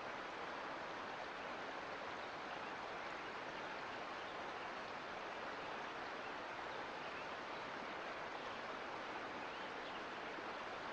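Mountain creek flowing: a steady, even rush of running water with nothing else standing out.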